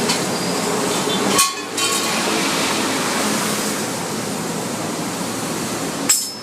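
Yamaha F1ZR (Fiz R) two-stroke engine running through a racing-style aftermarket exhaust, a steady noisy sound that cuts out briefly twice, about one and a half seconds in and near the end.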